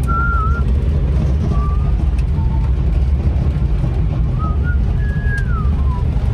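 A 1962 Plymouth Valiant driving along, a steady low engine and road rumble, with a few short, high chirping notes over it.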